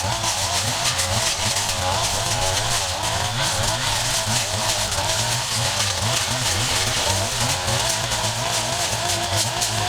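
Gas-powered yard equipment engines running continuously, sped up by the time-lapse so their pitch wavers quickly up and down.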